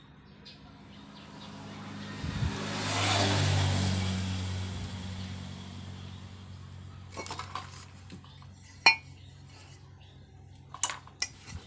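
A motor vehicle passing by, its engine noise swelling to a peak and fading away over a few seconds, followed by several sharp metallic clinks of tools and engine parts being handled.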